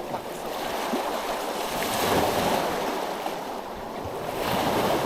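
Small sea waves washing over a rocky shore, swelling twice.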